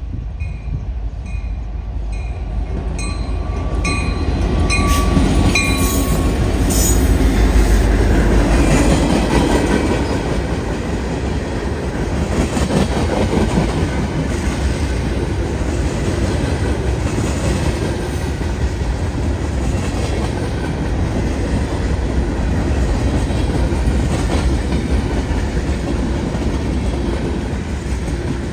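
Canadian National freight train passing close by: the locomotives' heavy rumble builds to its loudest about eight seconds in, then the freight cars roll past steadily with clickety-clack over the rail joints. A bell rings about once a second over the first several seconds, then fades under the train.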